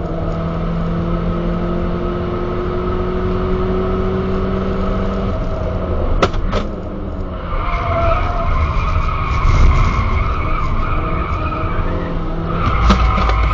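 Skoda Octavia 1.8 T turbocharged four-cylinder engine with a Supersprint exhaust, heard from inside the cabin while lapping a track: the engine note climbs slowly under load, two sharp knocks come about six seconds in, and after a brief dip a higher steady whine rides over the engine. Near the end the low rumble grows louder as the engine pulls harder.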